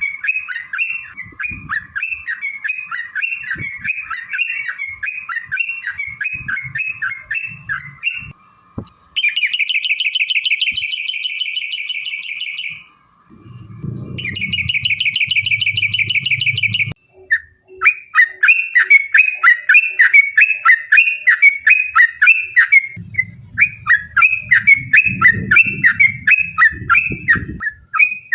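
Yellow-vented bulbuls (trucuk) calling in a fast, chattering run of short notes, broken twice by a rapid rattling trill midway. At those points, and again near the end, there is a low rumble underneath.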